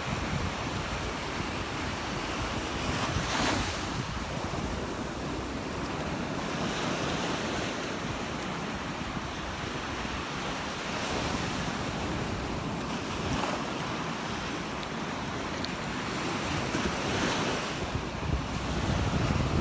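Surf breaking and washing up the beach, a fresh wash swelling up every three to four seconds, with wind buffeting the microphone.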